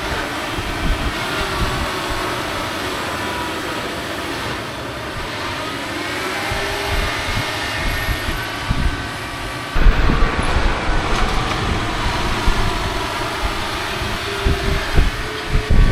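Heavy diesel farm machinery running steadily with low rumbling thumps, stepping up louder about ten seconds in, as wet corn is pushed and packed into a pile.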